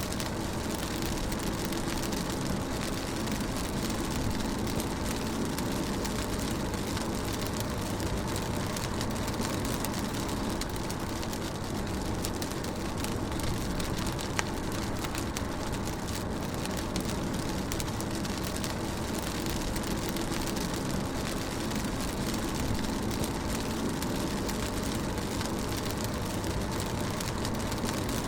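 Rain falling on a moving car, heard from inside the cabin, over the steady low rumble of the engine and tyres on wet road.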